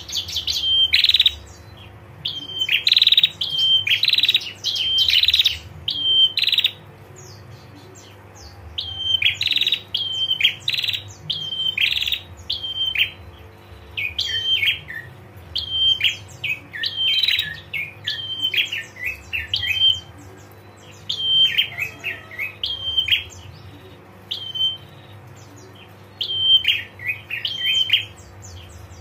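Female prenjak calling in repeated bursts of short, high chattering notes, the rapid 'ngetir' call. Short pauses fall between the bursts.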